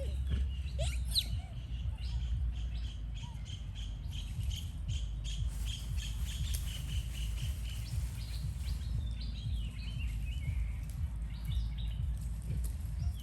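Outdoor ambience of birds chirping, with short repeated chirps and a few rising squeaks about a second in, over a steady low rumble.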